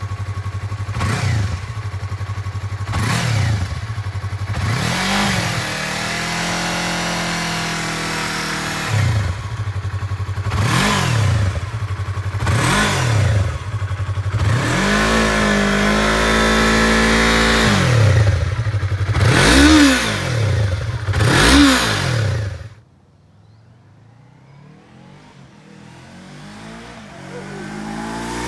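Yamaha YZF-R3's parallel-twin engine, breathing through an M4 Street Slayer carbon slip-on exhaust, idling and being revved repeatedly. Quick blips alternate with two revs held for about three seconds each. The engine sound cuts off abruptly about three-quarters through, and a fainter engine sound builds near the end.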